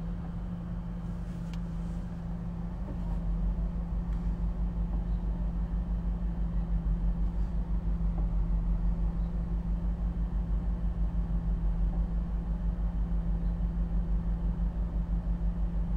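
Car engine running, heard from inside the cabin: a low steady hum with a rapid, even throb that grows a little louder about three seconds in.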